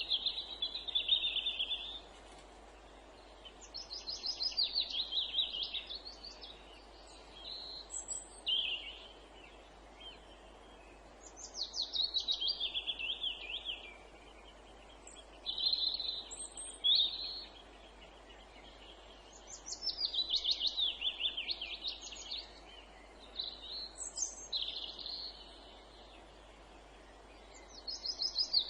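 A songbird repeatedly singing a short trilled phrase, a fast run of notes that falls in pitch, about every four seconds, with a few shorter high notes in between, over a faint steady background hiss.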